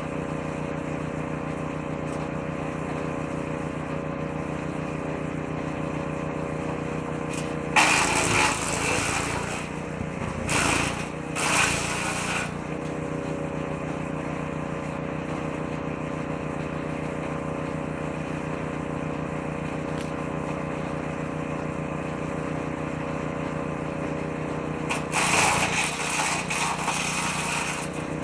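Petrol engine of a woodchipper-shredder running steadily, with three bursts of louder chipping noise as branches are fed into the shredder drum: two close together about a third of the way in and one near the end.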